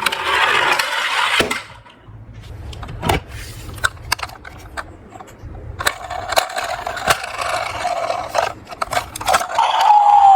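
Toy cars rolling down a small slope, their wheels scraping and rattling, with scattered sharp clicks and knocks between runs.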